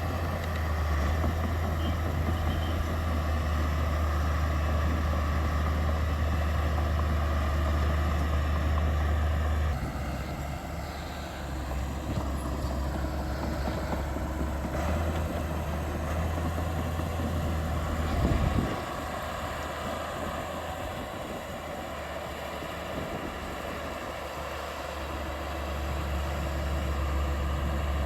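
Heavy diesel engines of earthmoving machinery running, with a strong steady low drone. The level drops about a third of the way in, and there is a brief louder thump about two-thirds of the way through.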